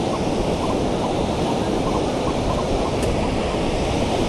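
Ocean surf washing steadily, a dense rushing noise that is strongest low down.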